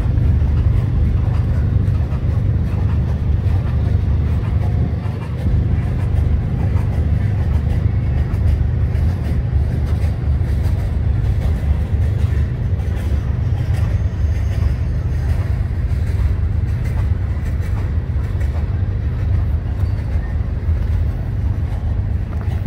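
Freight train of hopper cars rolling past, a steady low rumble of wheels on rail.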